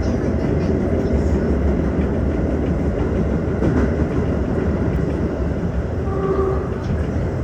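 Tokyo Metro 15000 series train running, a steady rumble and clatter of wheels on the rails. About six seconds in, a short faint tone sounds over the rumble.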